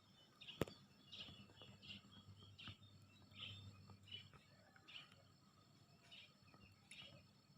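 Faint bird chirps, short calls repeating every half second or so over a low background hum, with a single sharp click about half a second in.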